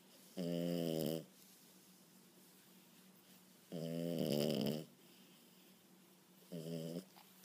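French Bulldog puppy snoring loudly in its sleep: three pitched, buzzing snores about three seconds apart, each under a second long, the last one shorter.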